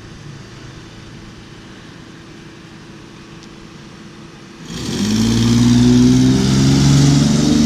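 A low, steady idling hum, then about three-quarters of the way through an engine is suddenly revved loud and held at high revs.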